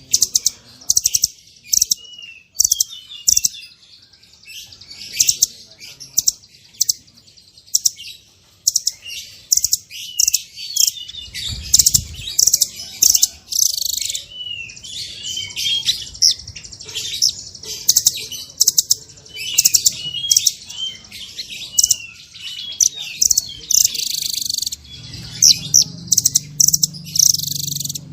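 Small songbirds singing rapid runs of sharp, high-pitched chirps and short trills, several notes a second with brief pauses: a masteran, a tutor-song recording of the kind played to caged songbirds.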